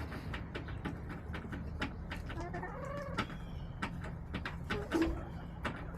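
Backyard hens: one drawn-out call that rises and falls about two and a half seconds in, and a short low note near the end, over many sharp taps and clicks and a steady low hum.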